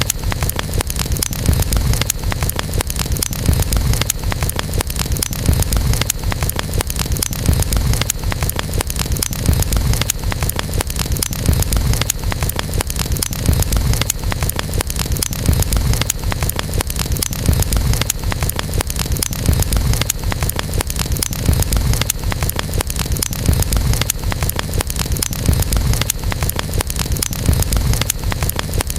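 Campfire burning steadily, wood crackling and popping in many small snaps over a low, constant rumble of the flames.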